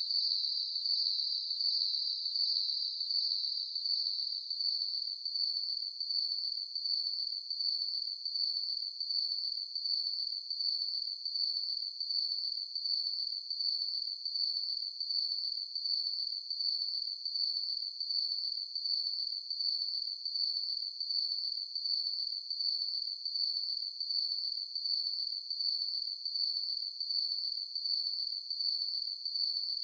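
Crickets chirping: a steady, high-pitched trill that pulses at an even rhythm.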